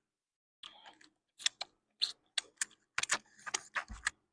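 Eating sounds up close: an irregular run of short clicks and smacks of chewing, coming thicker in the second half.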